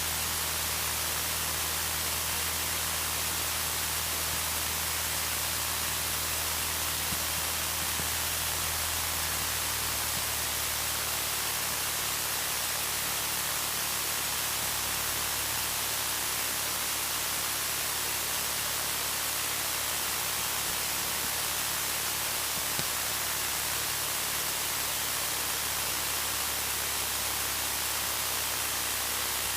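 Steady hiss of a cockpit headset and intercom recording, with the low, steady hum of a Cessna 152's engine at taxi power underneath; the hum shifts slightly about ten seconds in.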